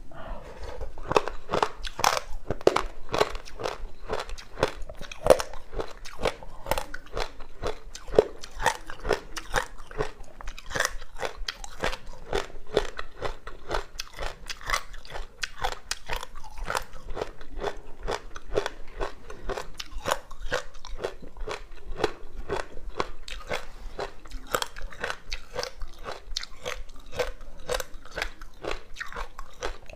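Ice being bitten and chewed: frozen passion fruit with sesame seeds, crunching in a steady run of sharp crunches, several a second. It starts abruptly at the outset and keeps on without a break.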